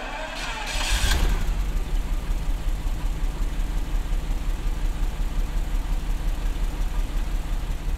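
Jaguar-built 5.3-litre V12 of a Daimler Double Six catching, with a brief rev about a second in, then settling into a steady, smooth idle, its stuck fuel injectors freshly freed.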